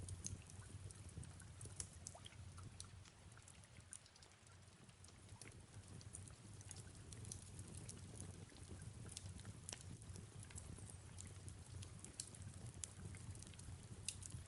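Faint fireplace ambience: irregular small crackles and snaps over a steady low rumble, with soft rain falling.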